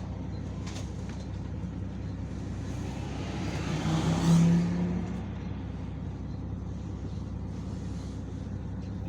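Yutong ZK6128HG city bus under way, its engine giving a steady low drone. About four seconds in, a louder swell of traffic noise with a short steady low tone rises and fades within about two seconds.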